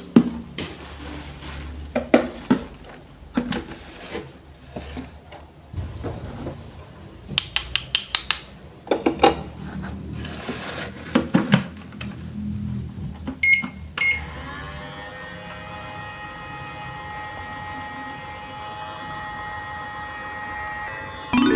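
Small plastic toy kitchen pieces being handled, giving scattered clicks and taps, some in quick runs. About two-thirds of the way in, these give way to a steady electronic sound of several held tones, like a toy appliance running.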